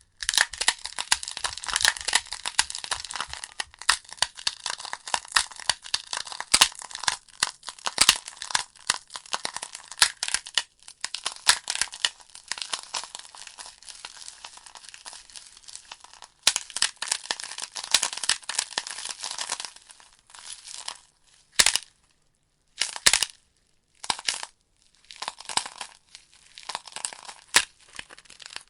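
Wood fire crackling in a fireplace: a dense run of sharp snaps and pops from the burning logs, thinning after about twenty seconds to scattered pops with short quiet gaps.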